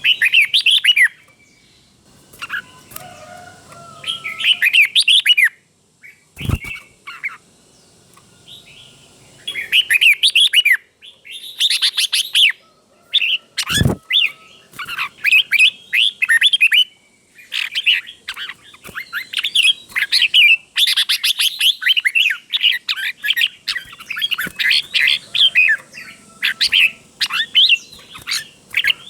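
Red-whiskered bulbul singing: bursts of quick, loud warbled phrases with short pauses between them, coming almost without a break in the second half. Two sharp knocks cut in, about six and a half and fourteen seconds in.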